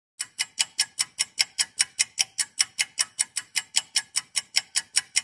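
Clock-tick sound effect of a countdown timer: sharp, even ticks at about five a second.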